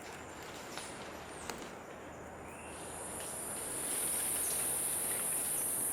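Insect chorus: a high, steady buzz that thins out briefly, then swells louder about three seconds in and holds.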